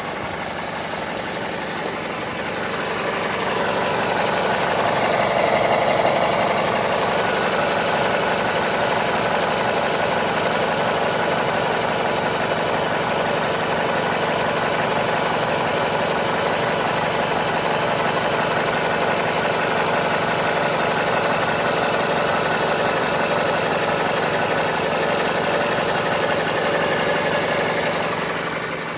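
Mazda CX-7 engine running warm at a steady speed. It grows louder over the first few seconds, then holds even.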